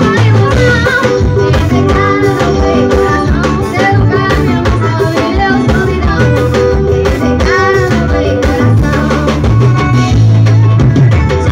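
Forró music played loud and steady: a singing voice over plucked guitar, bass and drums.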